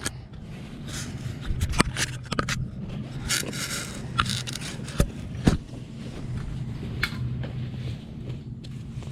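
Camping gear being handled: scraping and rustling with several sharp clicks, the loudest two about five seconds in, over a steady low hum.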